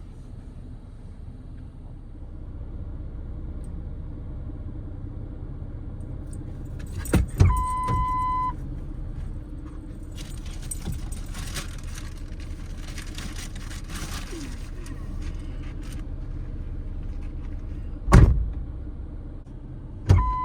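Vehicle doors shutting with heavy thuds, about a third of the way in and twice near the end, each of two of them followed by a one-second electronic beep, over a steady low engine idle; rattling and rustling in between, typical of gear being loaded into a vehicle.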